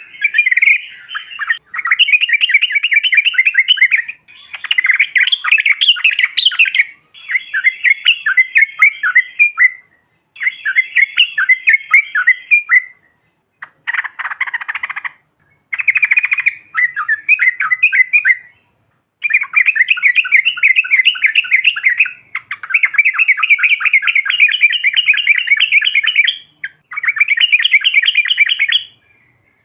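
Sooty-headed bulbuls chattering in fast, rolling runs of notes. Each run lasts two to four seconds, with short pauses between.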